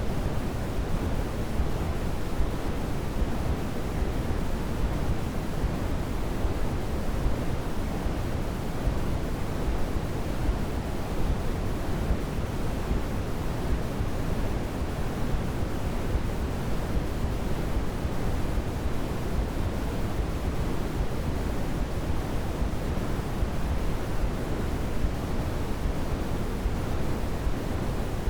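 Steady synthetic sleep-aid noise: a constant, unchanging hiss with most of its weight in the low end, closer to pink noise than to bright white noise.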